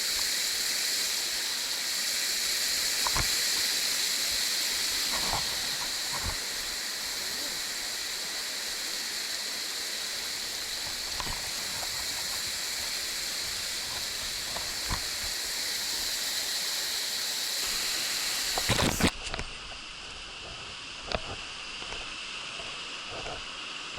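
Steady rushing of falling water from a waterfall. About 19 seconds in it cuts suddenly to a quieter, duller rush of water, with a few faint knocks.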